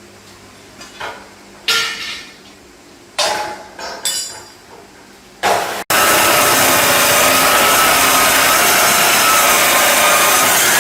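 A few short knocks and scrapes of tools on metal, then about six seconds in a power tool starts abruptly and runs loud and steady.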